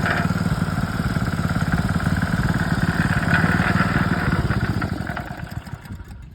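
Honda petrol engine of a Koshin KH-50 engine pump running steadily, then shut off about five seconds in: its firing slows and fades out as it winds down to a stop.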